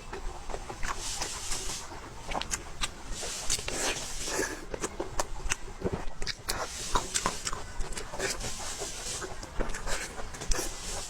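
Close-miked eating sounds: chewing and mouth smacking with many quick, irregular wet clicks and some breathy hiss.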